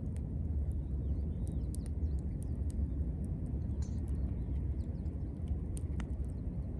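Campfire crackling, with sharp irregular pops and snaps, one louder snap about six seconds in, over a steady low rumble.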